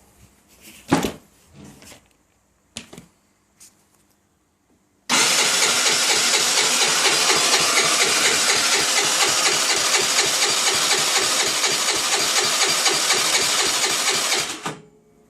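A few clicks and knocks, then the electric starter of a Baotian Tanco scooter's 50cc four-stroke engine cranks for about ten seconds at a steady pace with regular pulses, and cuts off without the engine picking up. This is the sound of a hard-starting engine that won't catch.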